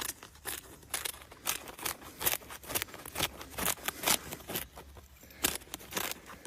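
Irregular run of light crinkles and clicks, several a second.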